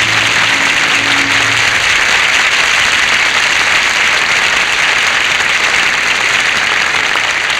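Studio audience applauding steadily and loudly after a song. The orchestra's last held chord fades out about a second and a half in.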